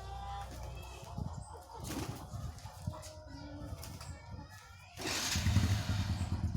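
Young pigeons flapping their wings with a few soft coos. About five seconds in, a motorbike engine comes in suddenly, running steadily and louder than the birds.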